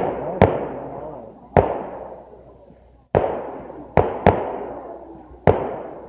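Fireworks going off in a show: about seven sharp bangs at uneven intervals, each followed by a rumbling echo that dies away.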